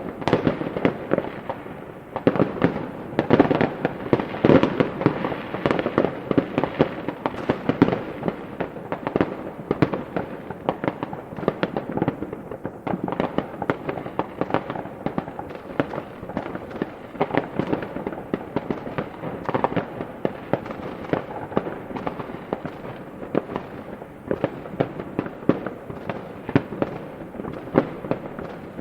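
Fireworks going off in a dense, unbroken barrage: many sharp bangs and crackling pops each second.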